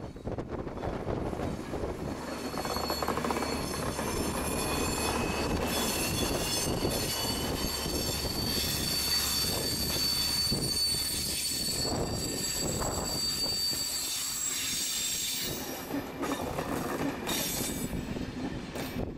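Diesel locomotive hauling passenger coaches past at low speed, its engine running with a low hum. Steel wheels squeal high-pitched for several seconds as the coaches roll by, with a few wheel-on-rail knocks. The sound fades toward the end as the train moves off.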